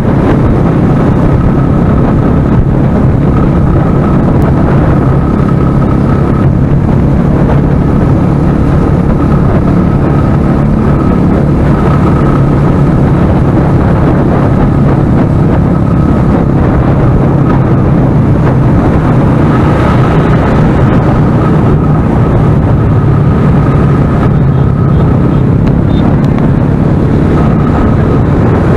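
Motorcycle engine running steadily at cruising speed under heavy wind noise on the microphone, loud and unbroken.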